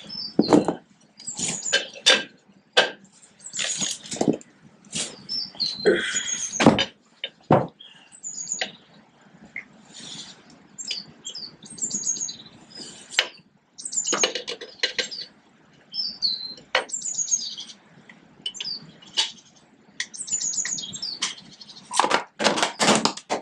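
A small bird chirping and singing in quick, high, falling notes, over the clinks and knocks of steel brake shoes and springs being handled and fitted on a 1955 Fordson Major's rear brake backplate. The loudest is a sharp metal clank about seven seconds in, with a quick run of knocks near the end.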